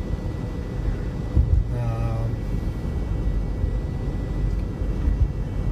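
Steady low road and engine noise inside a car cabin, cruising at highway speed on a snow-covered road.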